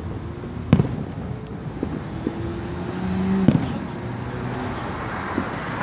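Fireworks bursting: two sharp bangs about three seconds apart, with a few smaller pops, over a steady background rumble.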